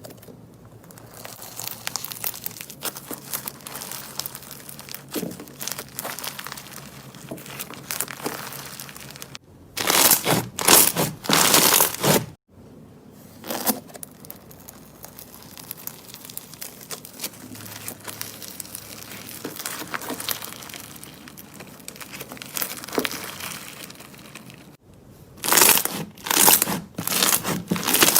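Slime being worked by hand, with a steady run of crinkling, crackling sounds. Louder bursts come about ten seconds in and again near the end.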